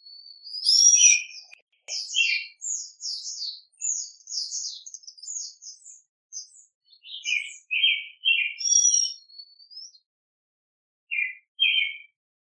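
Small songbird singing a long, rapid warbling song of varied high notes for about five seconds, followed by bursts of shorter chirps and two brief chirps near the end.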